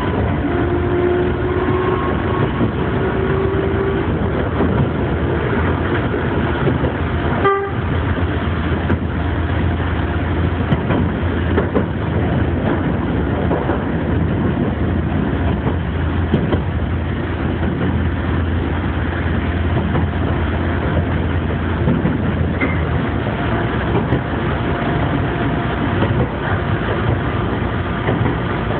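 Electric commuter train running along the track, heard from inside the front car: a steady low rumble of wheels on rails, with a faint rising whine in the first few seconds.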